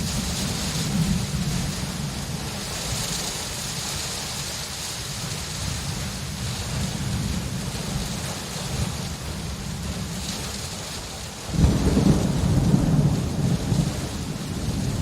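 Steady rain with a low rumble of thunder, and a sudden louder clap of thunder that rolls on for the last few seconds.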